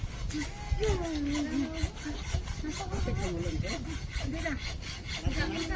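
Handsaw cutting wood in quick, even strokes, with voices talking underneath.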